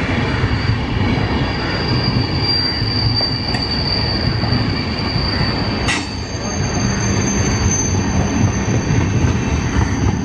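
Express train passenger coaches rolling past, wheels running over the rails with a steady high-pitched wheel squeal. About six seconds in there is a sharp click, and the squeal jumps to a higher pitch.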